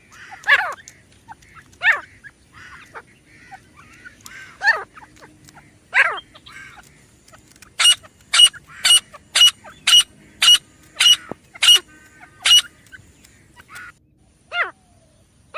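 Grey francolin calling: loud, separate notes that sweep downward in pitch, then, about eight seconds in, a quick run of about ten sharp high notes at roughly two a second, followed by more falling notes near the end.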